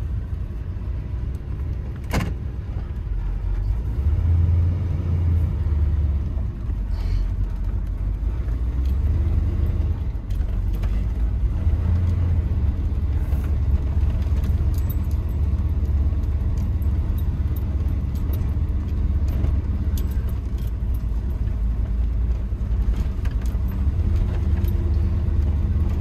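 A Blueprint 400 cubic-inch small-block V8, heard from inside a pickup's cab, accelerating hard from a stop through a true dual exhaust with Dynomax Super Turbo mufflers and Vibrant resonators. A low exhaust rumble swells about four seconds in and holds, with brief dips as the three-speed automatic shifts.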